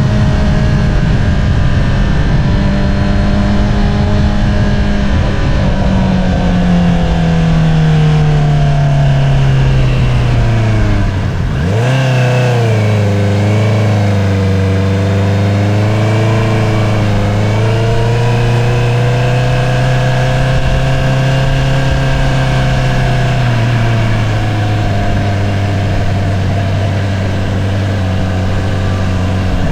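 2022 Honda CBR650R inline-four with an Akrapovič single-outlet exhaust, ridden on the road. The engine holds a steady note for several seconds, then its revs fall slowly as the bike slows. Around halfway there is a quick dip and rise in revs, as on a gear change, and then it cruises at lower, steady revs with less wind rush.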